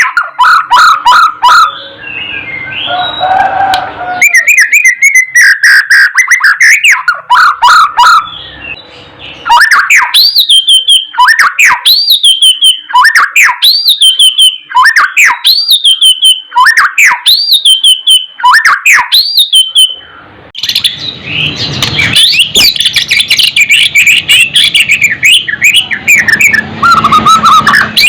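White-rumped shama (murai batu) singing loudly: a varied song of fast whistled phrases. In the middle it repeats one rising-and-falling whistled note about seven times, and near the end it breaks into a dense burst of rapid notes.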